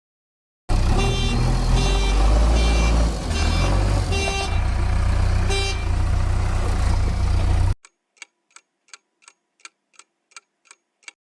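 A loud motor-vehicle sound effect: a deep engine rumble with several short horn honks, which cuts in suddenly and stops abruptly after about seven seconds. Then a clock ticks, about three ticks a second.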